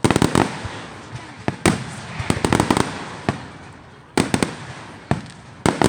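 Fireworks going off: a series of sharp bangs about once a second, with a run of quick crackling pops in the middle.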